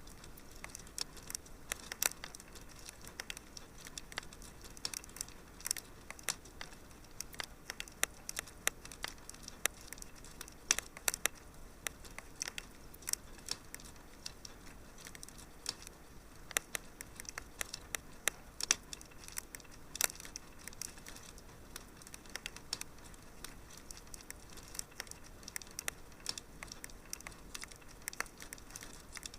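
Fire crackling in a fireplace: frequent small, sharp pops and snaps, irregular and several a second, over a soft steady hiss.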